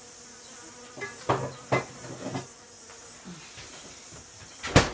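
Houseflies buzzing in a kitchen, with a few light knocks of kitchen utensils about a second in and a sharp knock near the end.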